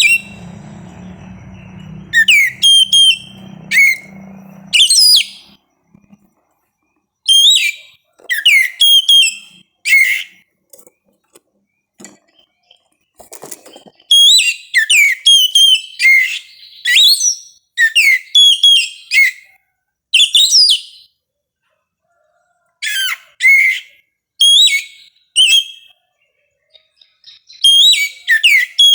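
Oriental magpie-robin (kacer) singing: loud, clear whistled phrases of quick rising and falling notes, given in bursts of one to several seconds with short silent pauses between, the song most continuous in the middle of the stretch.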